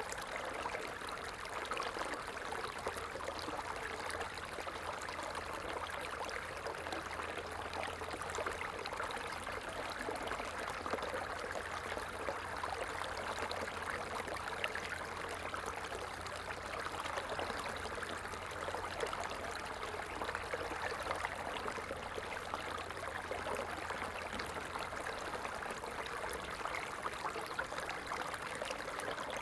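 Stream water flowing steadily, an even rushing trickle.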